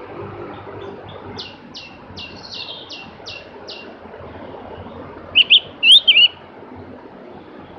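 Javan grey-throated white-eye (opior jawa) singing: a quick run of short, high, falling notes, then, about five seconds in, a louder twisting, warbled phrase, over steady background noise.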